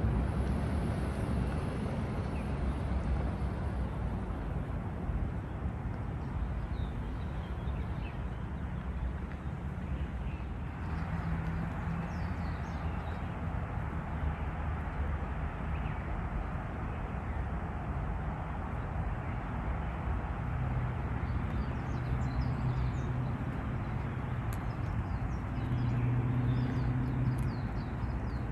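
Outdoor field-recording ambience: a steady low rumble with faint short bird chirps now and then, a little more frequent in the second half.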